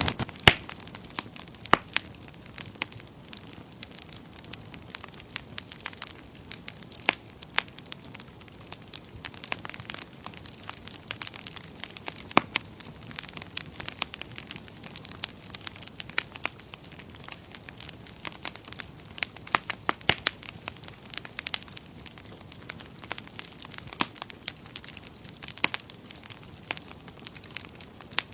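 Wood fire crackling in a fireplace: irregular sharp pops and snaps, several a second at times, over a soft hiss.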